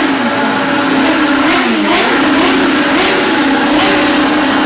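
Motorcycle engines revving as bikes ride by, with the pitch rising and falling several times over a steady engine note.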